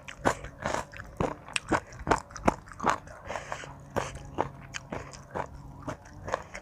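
Close-up eating sounds of spicy Thai seafood salad: wet chewing with irregular crisp crunches and mouth smacks, about two a second.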